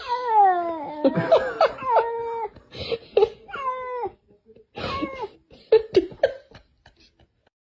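Cat meowing repeatedly: a run of about six drawn-out calls that slide down in pitch, stopping about six seconds in.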